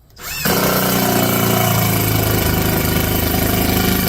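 Cordless screw gun driving a screw into wood: the motor spins up quickly, then runs at a steady whining pitch under load.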